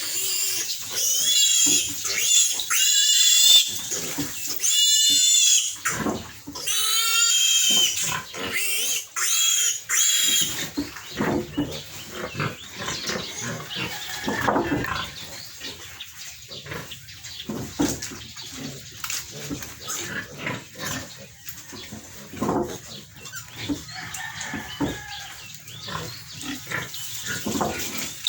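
Young piglet squealing in repeated loud, high-pitched screams, the distress cry of a piglet held for castration. The squealing stops about ten seconds in, leaving quieter irregular knocks and rustling.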